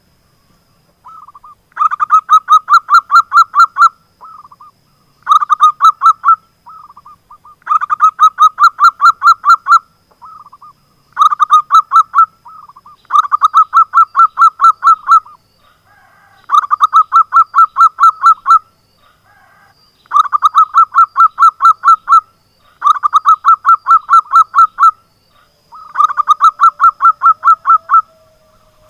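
Zebra dove (perkutut) singing: repeated phrases of rapid, evenly spaced cooing notes. Each phrase lasts about two seconds, and about nine phrases come in steady succession.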